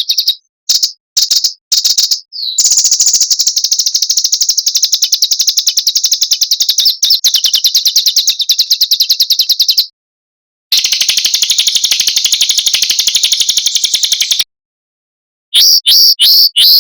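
Small songbird singing very fast, dense high trills in long runs, with abrupt cut-offs to silence about ten and fourteen and a half seconds in. Near the end come separate sharp notes, each falling in pitch, a couple per second.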